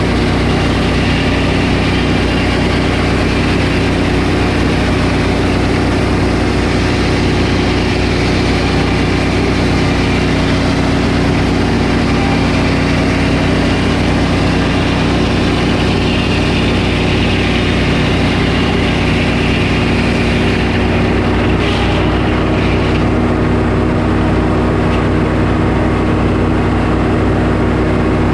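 Portable sawmill's engine running steadily at working speed. The higher hiss eases off a little about 22 seconds in.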